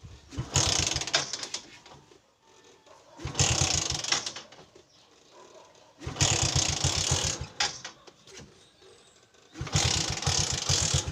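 A hard-starting motorcycle being kick-started four times: each kick turns the engine over with a quick run of low pulses for a second or so, then it dies away without staying running.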